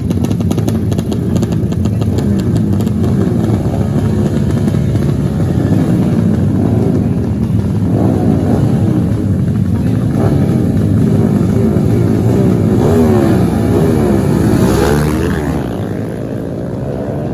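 Racing motorcycle engines revving up and down, their pitch rising and falling again and again as the bikes run the race. About fifteen seconds in, one engine climbs sharply in pitch, then the sound drops off.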